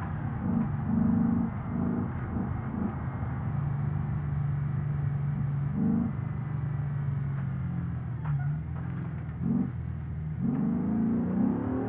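Porsche Cayenne Turbo S's twin-turbo V8 heard from inside the cabin while driving: several short rises and dips in engine pitch in the first few seconds, a steady cruise in the middle, then the engine climbs in pitch under acceleration near the end.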